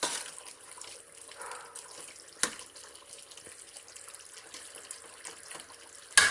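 A spoon stirring a wet chicken curry in a metal pot, with wet, watery sounds from the curry, a few single knocks of the spoon on the pot, and a louder clatter near the end.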